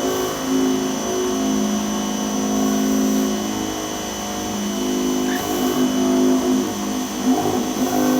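Dewalt 2100 PSI electric pressure washer running with a steady mechanical hum that swells and eases, over the hiss of water spraying from the sidewalk cleaner attachment.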